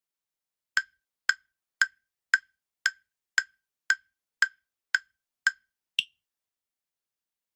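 Countdown timer sound effect: short, even clock-like ticks, about two a second, eleven in all, ending in one last tick that sounds a little different and higher.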